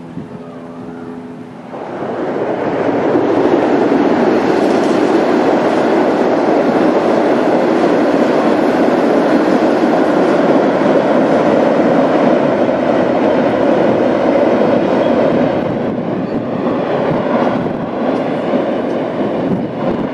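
Amtrak train passing at speed on the Northeast Corridor: a loud, steady rush of wheels on rail that builds about two seconds in, holds, and eases off near the end.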